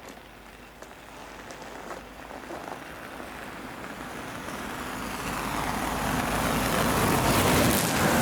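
A train approaching, its rumble and rail noise growing steadily louder.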